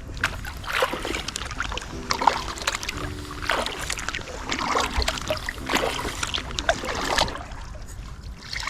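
Kayak paddle strokes: the blades dip and pull through the water in a steady rhythm, each stroke a splashy wash, roughly one a second.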